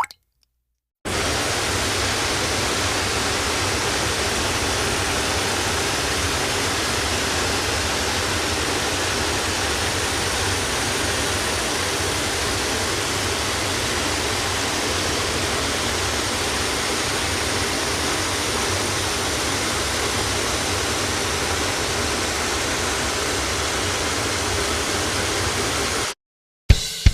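A steady, even rushing noise sound effect. It starts abruptly about a second in and cuts off suddenly near the end.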